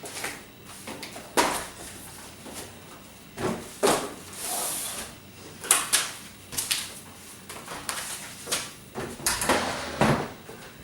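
Irregular knocks, clatters and short scrapes of hard objects being handled, a dozen or so separate hits spread unevenly.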